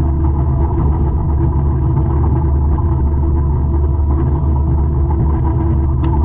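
A 200-horsepower forestry mulcher running steadily, as a loud, even low drone with a few steady tones over it.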